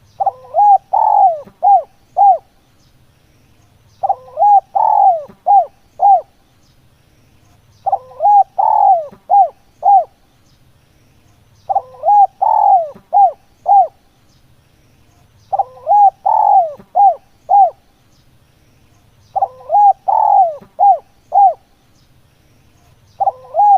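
Spotted dove cooing its song over and over: a phrase of five or six coos, repeated about every four seconds.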